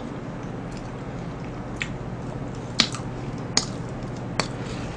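A mouthful of rice with sauce being chewed close to the microphone: soft wet squishing with four sharp mouth clicks from about two seconds in.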